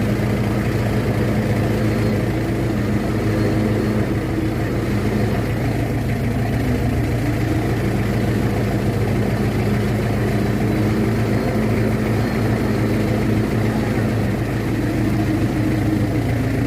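Diesel engine of a Fuso HD truck running steadily at low revs, with a constant deep hum.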